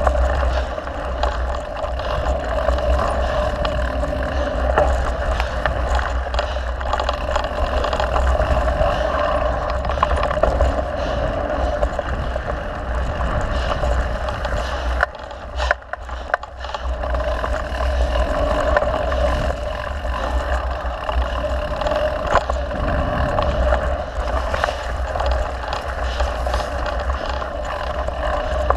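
Mountain bike being ridden along a dirt trail, heard as steady wind buffeting on the camera microphone with tyre noise and many small rattles and clicks from the bike over bumps. The noise drops off briefly about fifteen seconds in, then resumes.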